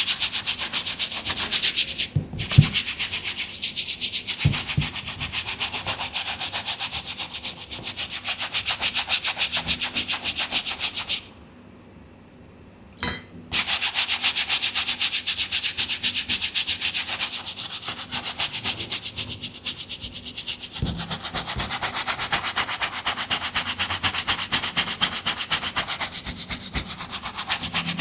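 Cleaning brush scrubbing a sneaker in quick, even back-and-forth strokes, with a short break just after 2 s and a pause of about two seconds a little before the middle.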